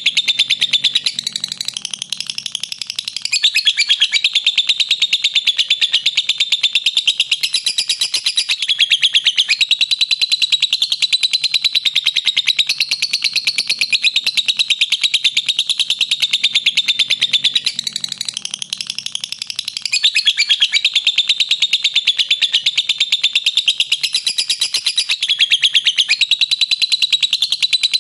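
Lovebird giving its long 'ngekek' chatter: a continuous stream of very rapid, shrill notes, easing off briefly twice.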